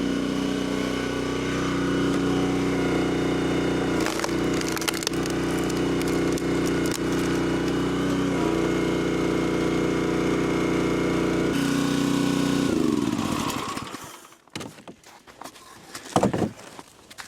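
A small petrol engine running steadily, its pitch shifting a couple of times, with wood cracking and splintering about four to five seconds in. The engine winds down and stops about thirteen seconds in, followed by a few thumps.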